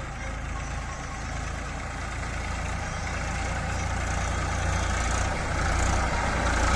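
Heavy machinery's diesel engine running, growing steadily louder.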